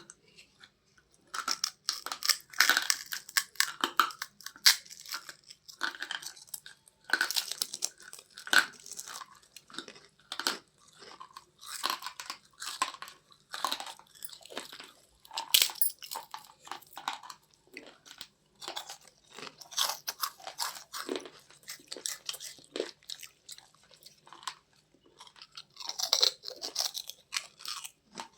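A person crunching and chewing a crisp, crunchy snack close to the microphone, in repeated clusters of sharp crackles with short pauses between bites.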